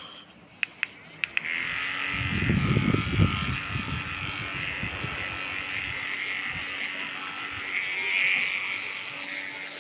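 A few quick clicks, then an electric fan starts running: a steady rush of air over a constant motor hum, with a rumble for a couple of seconds soon after it starts.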